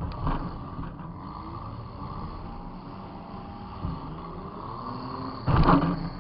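Demolition derby car's engine running with a rough, low rumble, heard from inside the car. A loud, sudden hit lasting about half a second comes near the end, typical of a collision with another car.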